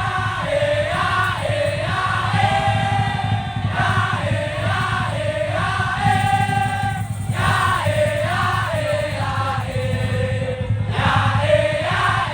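Live daul (tongtong) music from a Madurese street-percussion ensemble: a wavering, ornamented melody with many overtones over a steady low drone.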